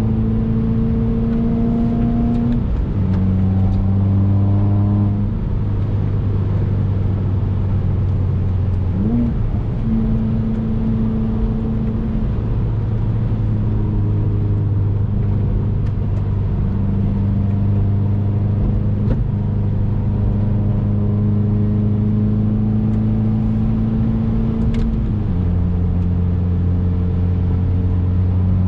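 2019 Subaru WRX's turbocharged flat-four running at steady driving revs, a low even drone over road noise. Its pitch drops near 3 seconds in, rises briefly around 9 seconds, and drops again near 25 seconds as the revs change.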